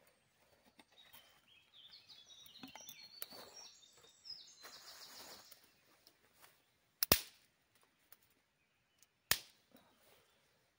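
Two sharp snaps of dry wood, about seven and nine seconds in, the loudest sounds here, typical of small twigs being broken up or cracking in a campfire. Before them a songbird sings a quick run of high stepped notes.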